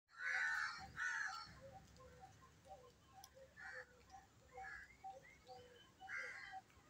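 Harsh, crow-like bird calls, the loudest two in the first second and a half and more around halfway and near the end, over a steady series of short, soft chirps about two a second.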